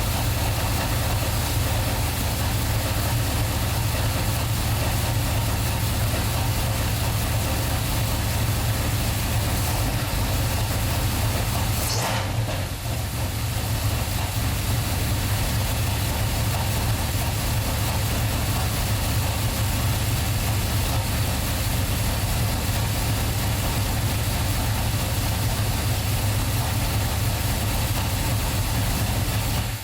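A small-block Chevy 350 V8 idling steadily through Flowmaster mufflers on a freshly repaired exhaust, just started after sitting about two months. Its level dips briefly once about twelve seconds in. The owner hears a rattle he can't place and thinks it might be something underneath the car.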